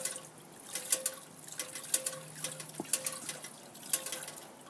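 Garden bird fountain running: water trickling and splashing into its basin, with a sharper splash about once a second.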